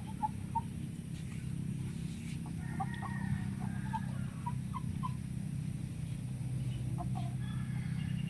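Chickens clucking in short, scattered notes over a steady low rumble.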